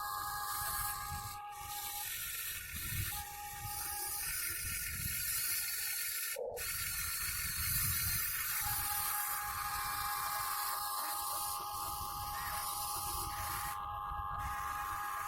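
Electric motors and plastic gearboxes of a Huina 1580 RC excavator whining as it works, with a rough gear rattle and grinding underneath. The whine cuts in and out several times as different functions start and stop, and there is a single sharp click about halfway through.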